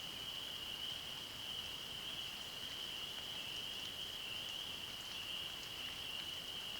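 A steady high-pitched chorus of frogs, blending into one continuous trill, over faint outdoor background noise.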